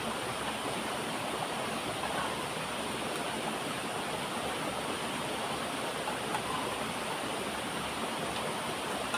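Waterfall rushing steadily, an even wash of falling water with no change.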